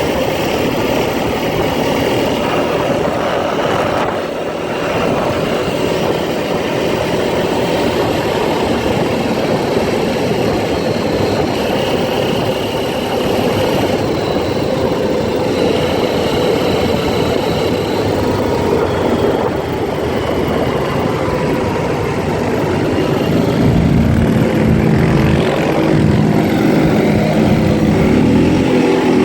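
ATV engine running steadily under way, getting louder and pulling harder near the end.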